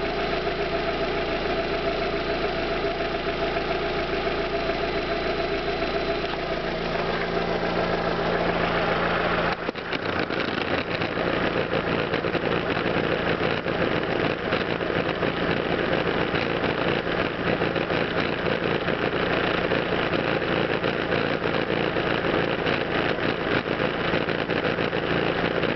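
Fiat Grande Punto 1.4 16v four-cylinder petrol engine idling steadily. The sound shifts and briefly drops about ten seconds in, then runs on noisier, with a fine rapid ticking.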